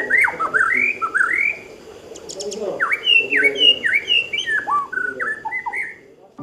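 White-rumped shama (murai batu) singing: fast runs of sweeping, whistled notes with a short break about two seconds in.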